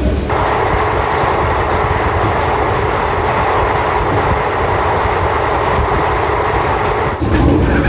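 Express passenger train running along the line, a steady rumble of wheels on rail with a faint constant hum. The sound changes abruptly about seven seconds in.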